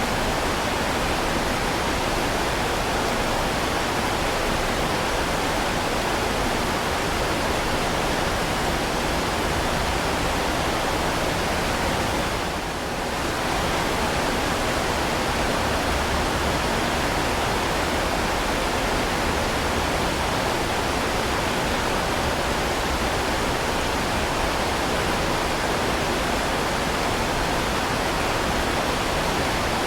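Heavy rain falling steadily, an even dense hiss, with a brief dip in level a little before halfway through.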